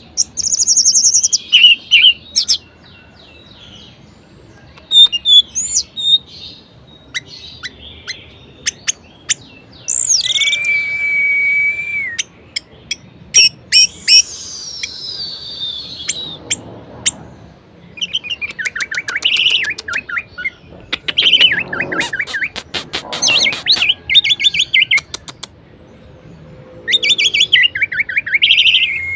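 Orange-headed thrush (anis merah) singing a varied song of whistles, chattering trills and mimicked notes, with quiet pauses between phrases. About a third of the way in it holds one steady whistle for a couple of seconds; then comes a long falling slurred note, and later a burst of rapid, loud chattering.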